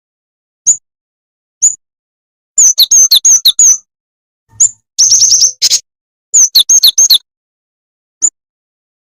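Jing-jing tetep bird calling, as played on a lure recording: single sharp, high chirps about a second apart, broken by three quick runs of rapid chirps, each note falling in pitch.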